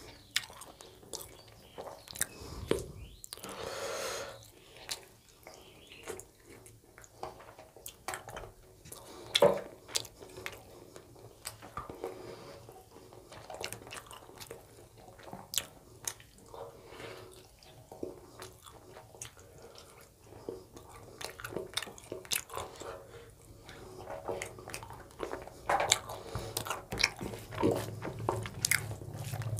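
Close-miked chewing and wet mouth clicks of a man eating rice and chicken curry with his hand, with soft squishing as his fingers mix rice into the gravy on the plate. Scattered sharp clicks throughout, the sharpest about nine seconds in.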